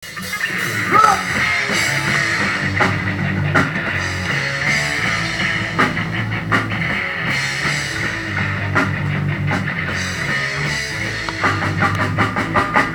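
Rock band playing live: electric guitar, bass and drum kit, with a run of quick drum hits near the end.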